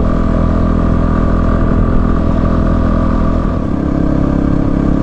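Single-cylinder dual-sport motorcycle engine running steadily while riding, its note shifting about three and a half seconds in.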